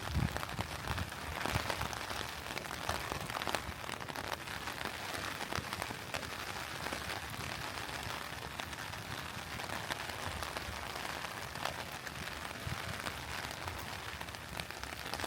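Steady rain falling on surfaces, with many individual drops pattering close by and a faint low rumble now and then.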